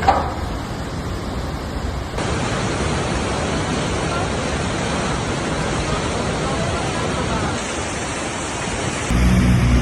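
Floodwater of a swollen mountain river rushing, a steady even noise. Near the end it cuts to a low engine hum.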